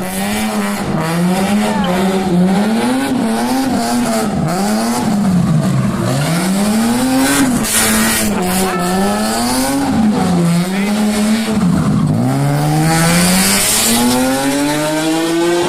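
Rotary-engined car being revved hard again and again, its pitch climbing and dropping with each throttle blip, and a longer rev climbing steadily near the end.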